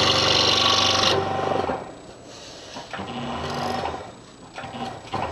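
Scroll saw blade cutting through a wooden puzzle board; about a second in the cutting hiss stops as the blade leaves the wood, and the saw's motor hum dies away shortly after. Faint handling sounds of the cut piece follow.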